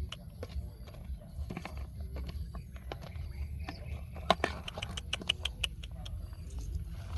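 Dry leaf litter and twigs rustling and crackling as they are moved by hand, with irregular small clicks and one sharper snap about four seconds in, over a steady low rumble.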